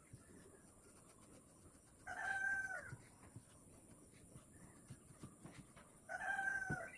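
Two drawn-out animal calls about four seconds apart, each held at a steady pitch and dropping at the end, over faint scattered ticks.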